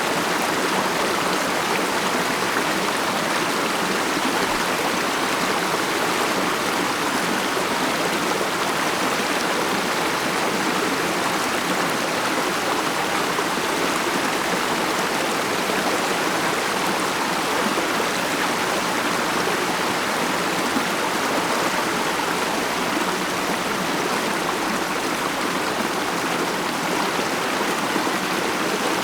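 Mountain stream flowing steadily over rocks, a continuous even rush of water without break.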